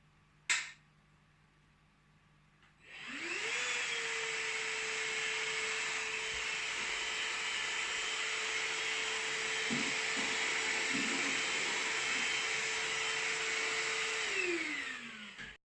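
Black + Decker Multipro cordless vacuum in handheld mode switched on: its motor spins up with a rising whine about three seconds in and runs steadily with a strong airflow hiss for about eleven seconds. Near the end it winds down with a falling whine. A single click comes shortly before it starts.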